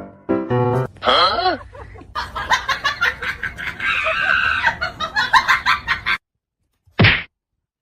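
Animal calls with sliding pitch, then a dense jumble of calls and noise that cuts off suddenly about six seconds in, followed by one short loud burst near the end.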